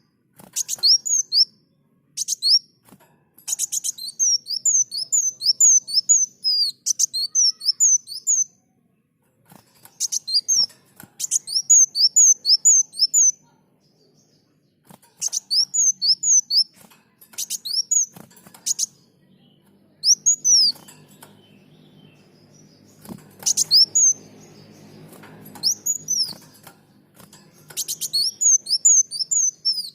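Kolibri muncang (a sunbird) singing: bursts of quick, high, down-slurred chirps, several notes a second, broken by short pauses. A faint low hum sits under the song in the second half.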